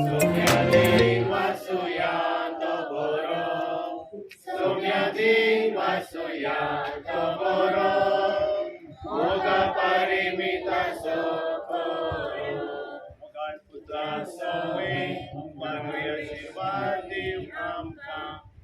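Singing: voices chanting in chorus, in phrases with short breaks between them.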